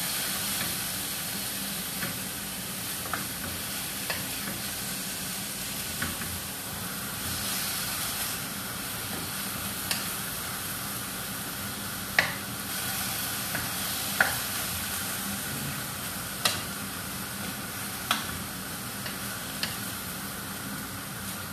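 Chicken breast strips sizzling steadily as they fry in oil in a frying pan, stirred with a spatula. The spatula gives sharp clicks against the pan every second or two, two of them louder near the middle.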